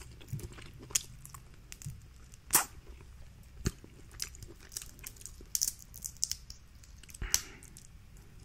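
Hands cracking and prying at boiled shellfish shells, a scatter of sharp cracks and snaps with the loudest about two and a half seconds in and near the end, mixed with close-miked chewing.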